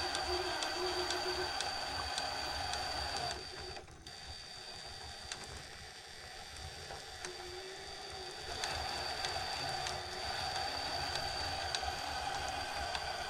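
Electric motor and gear drivetrain of an RC rock crawler whining as it climbs an incline. It drops off for a few seconds about three and a half seconds in, then picks up again around eight and a half seconds.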